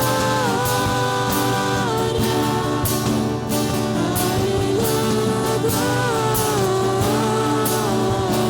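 Worship song performed by a band, with voices singing long held notes over drums whose cymbal strokes recur steadily.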